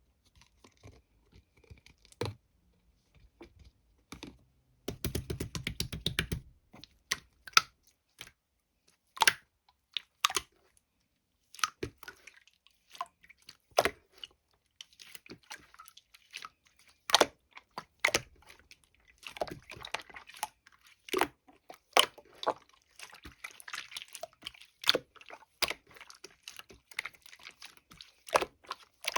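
Slime being squished and poked by hand, giving irregular sharp clicks and crackling pops, with a dense run of crackles about five seconds in.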